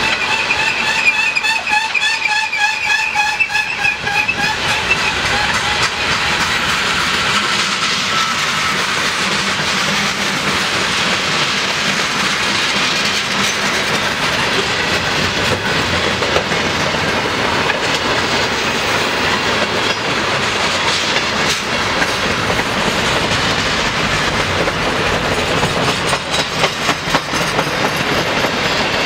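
Freight cars of a long mixed train rolling past close by: a steady rumble and clatter of steel wheels on the rails. A wavering high wheel squeal sounds over it in the first few seconds, then fades away.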